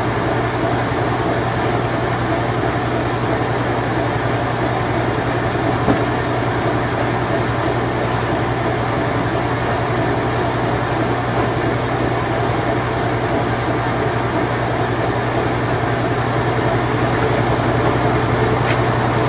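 Circa-1990 Whirlpool Imperial Clean Touch washing machine running in its spin cycle: a steady motor hum with a strong low tone under a wash of mechanical noise, and one faint click about six seconds in.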